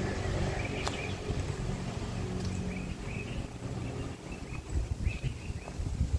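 Small birds chirping in short repeated notes over a low steady engine hum that fades about halfway through, with a few low thumps near the end.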